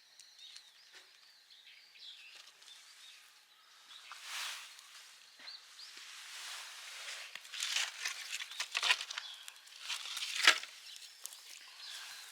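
Outdoor ambience: faint bird chirps in the first few seconds, then irregular rustling and crunching noises that grow louder, with the sharpest one a little after ten seconds in.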